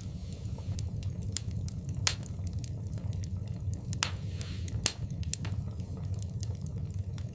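Wood fire burning in a fireplace: a steady low rumble of the flames under irregular crackling and sharp pops, the loudest pops about two seconds in and near five seconds.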